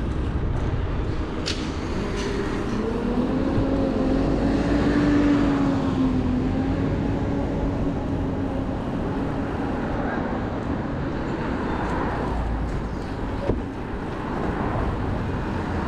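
Urban road traffic heard from a moving bicycle, with steady low wind and road rumble on the microphone. Early on, a hum rises slightly and holds for several seconds before fading.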